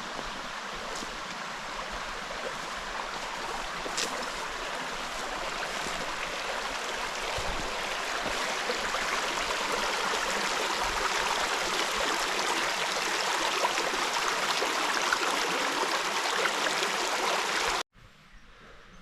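Small forest stream running over a little waterfall, a steady rushing and splashing that grows slightly louder and then cuts off abruptly near the end.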